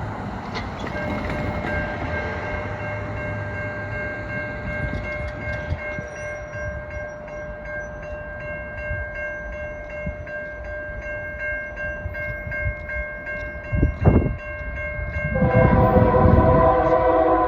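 Railroad grade-crossing bell ringing steadily over the low rumble of an approaching train, with a sharp thump near the 14-second mark. About fifteen seconds in, the lead Union Pacific locomotive's horn sounds, louder than everything before it.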